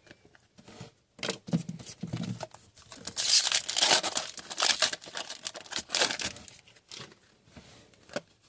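A trading card pack wrapper being torn open and crinkled by hand. The rustle is loudest in the middle few seconds, with small crackles around it.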